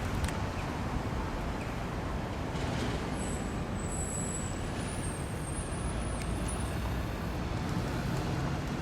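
Steady street traffic and engine rumble, with a faint high squeal for a few seconds in the middle.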